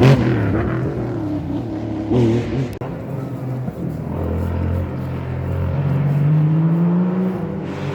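Historic rally car's engine revving hard, its pitch dropping and rising again, then climbing steadily near the end before falling off.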